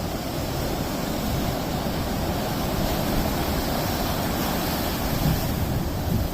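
Sea waves washing onto a shore in a steady rush that swells a little midway and eases near the end, with wind buffeting the microphone.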